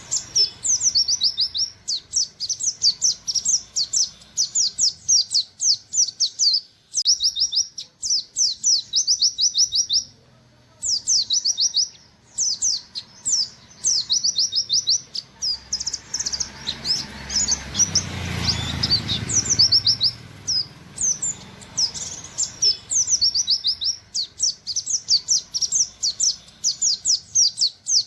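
White-eye (pleci) singing its rapid 'nembak' song: fast runs of high, sharp 'wit wit' notes, phrase after phrase with brief pauses. Past the middle, a low rushing noise rises and fades under the song.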